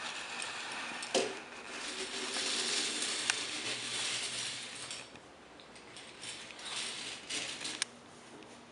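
Plastic Lego pieces clicking and rattling as a Lego toy airplane is handled, with a few sharper clicks, busiest in the first half and quieter after.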